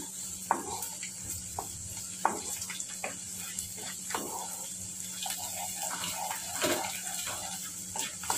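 Chopped garlic, ginger and green chillies sizzling in hot oil in a nonstick kadai over a high flame, with a steady hiss. A wooden spatula scrapes and knocks against the pan several times as the mixture is stirred.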